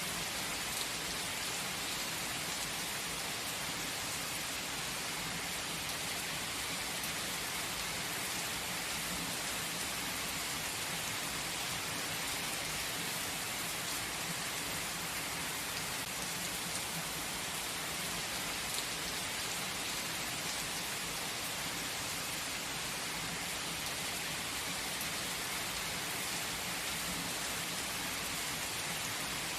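Gentle steady rain: an even hiss of falling rain with faint scattered drop ticks, unchanging throughout.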